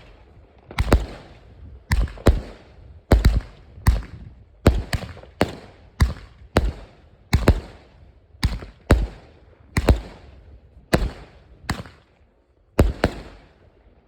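Fireworks exploding in a rapid barrage: about two dozen sharp bangs, often in close pairs roughly every half second to a second, each trailing off in a rumbling echo. A short gap comes near the end before a final pair of bangs.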